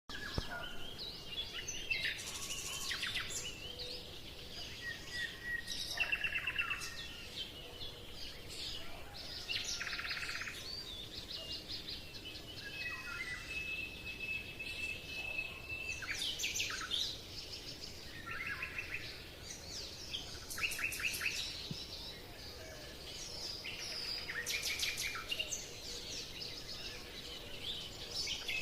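Birds chirping and singing, many short calls and fast trills overlapping, with one whistled note held for a few seconds midway.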